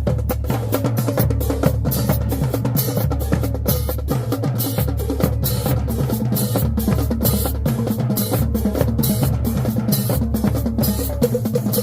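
High school marching band drumline playing a cadence: rapid, steady snare and bass drum strikes with a low sustained layer underneath.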